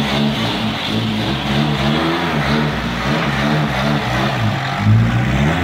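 ARO 10.4 4x4's engine running, its pitch wavering up and down a little in an uneven rhythm.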